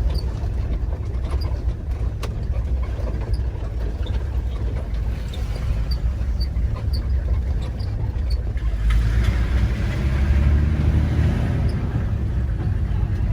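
A vehicle driving, with a steady low engine and road rumble that grows louder about nine seconds in.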